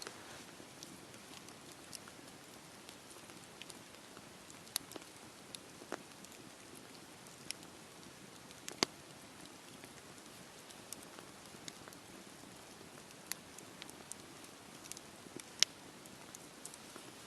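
Wood fire burning in a fireplace: a soft steady hiss with scattered crackles and a few sharp, louder pops.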